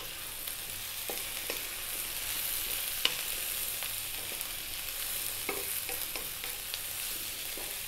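Diced potatoes, onion and green bell pepper sizzling in hot oil in a wok while a wooden spatula stirs them. Scattered light knocks and scrapes of the spatula on the pan sound over the steady sizzle.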